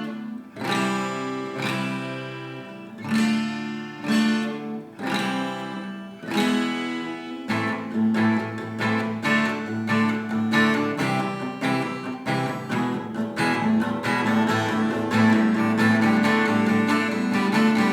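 Acoustic guitar playing open chords in A minor (Am, Dm, C, E, no barre chords): single chords struck and left ringing for about the first seven seconds, then steady rhythmic strumming.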